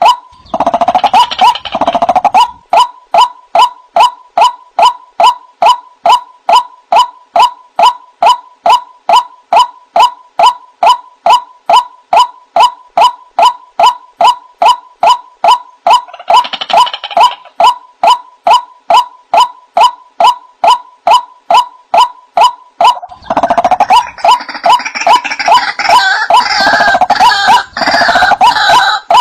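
White-breasted waterhen calls: a monotonous, evenly repeated nasal 'kwak' note, about three a second. Louder, rougher overlapping calls break in at the start, again briefly midway, and through the last several seconds, like a second bird joining the chorus.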